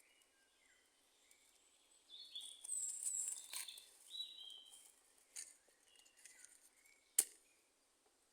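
Forest birds singing: short whistled chirps and sliding phrases, busiest from about two to five seconds in. Near the end comes one sharp crack, the loudest sound.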